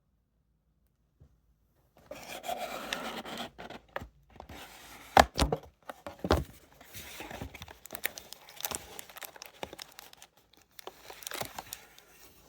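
Plastic card packaging being torn and crinkled by hand, starting about two seconds in, with a few sharp clicks and taps mixed in.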